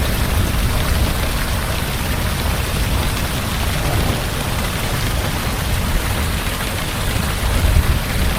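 Heavy rain falling steadily, with a deep low rumble underneath that swells briefly near the end.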